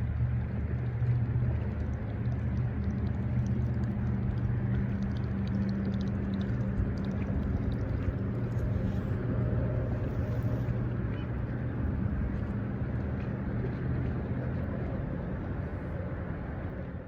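An engine running steadily at one speed, a low even hum over a rushing noise, cut off abruptly at the end.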